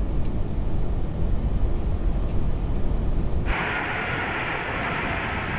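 Steady rumble of airflow and engines on the flight deck of an Airbus A380 in the last seconds before touchdown. About three and a half seconds in, a steady hiss comes in abruptly and cuts off just as suddenly two seconds later.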